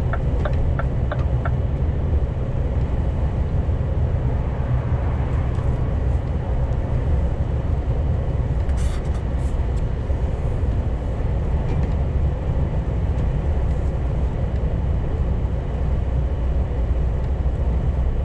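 Scania G410 truck with its 12.7-litre CNG (methane) engine, heard while driving: a steady deep engine-and-road rumble. A fast, even ticking runs over the first second and a half, then stops.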